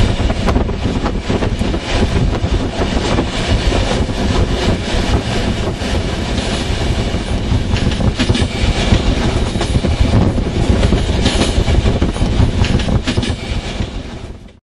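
A train running along the track at speed: a loud, steady rolling rail noise that cuts off abruptly near the end.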